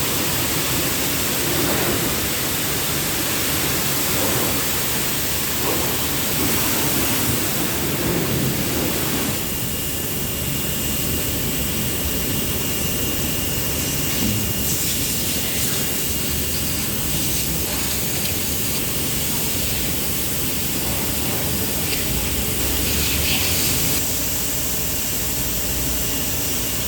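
Car wash water jets spraying onto a car, a steady rushing hiss that eases slightly about ten seconds in.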